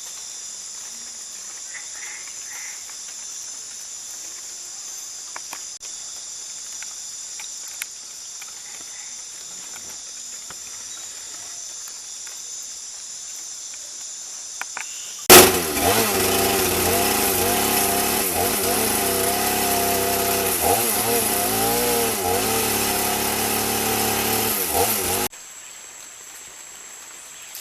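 Insect chorus of crickets or cicadas, a steady high-pitched buzzing. About halfway through, a loud small engine starts abruptly, runs with a wavering pitch for about ten seconds, and cuts off suddenly.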